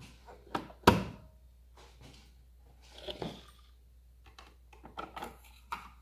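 Hard plastic clicks and knocks from the Nespresso De'Longhi Essenza Mini coffee machine's parts being handled: a sharp clack about a second in, then softer knocks around three seconds and a few more clicks around five to six seconds.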